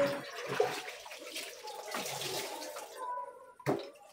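Wet clothes being lifted out of a semi-automatic twin-tub washing machine's tub, with water splashing and dripping, and a single knock near the end.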